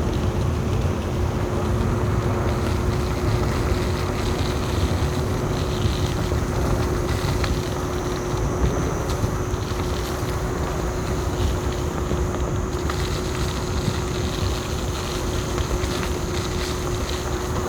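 Electric kick scooter (Ninebot F2) riding along: steady wind buffeting the microphone and rumble from the tyres, with a constant thin whine from the hub motor.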